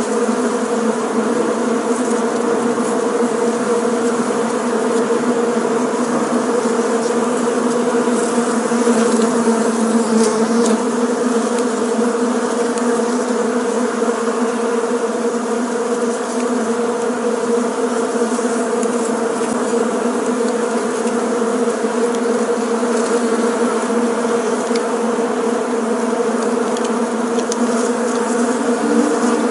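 Bees buzzing in a steady, unbroken drone, a dense hum with a low pitch and several overtones.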